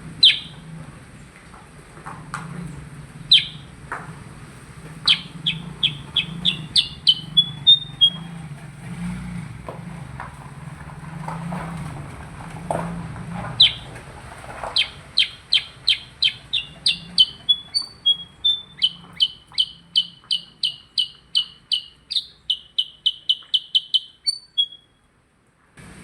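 A percang songbird singing vigorously ('gacor'): loud, sharp notes that sweep downward, some single and some in quick runs of about four or five a second, the longest run filling the second half. A low hum sits underneath in the first half.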